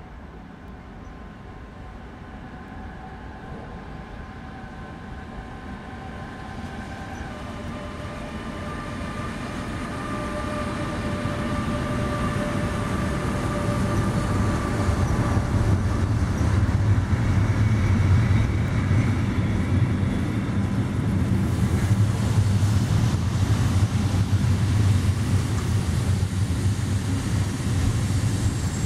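Electric freight train approaching and passing. The locomotive's whine steps down in pitch about seven seconds in, and the sound keeps growing louder until the covered goods wagons roll past with a steady, loud rumble of wheels on rail.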